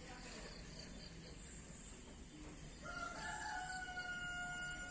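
A rooster crowing faintly: one long, held call that starts about three seconds in.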